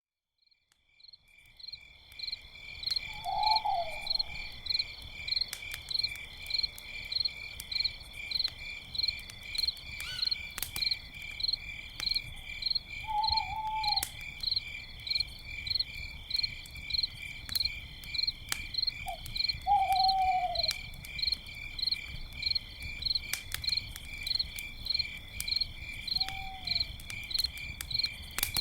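Crickets chirping steadily, about two chirps a second, with an owl hooting now and then, five short hoots that dip slightly in pitch, and the sharp crackles and pops of a campfire. The sound fades in over the first couple of seconds.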